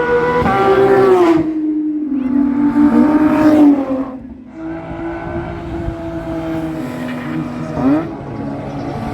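A car engine revving hard. Its pitch falls as the revs drop about a second in and again around four seconds, then holds steadier and more quietly, with a quick rising rev near the end.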